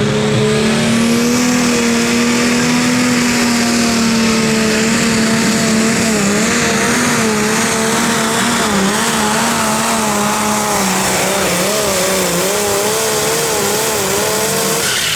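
Pulling tractor's diesel engine run at full throttle under heavy load during a pull down the track. Its pitch holds steady at first, then wavers up and down through the second half of the run.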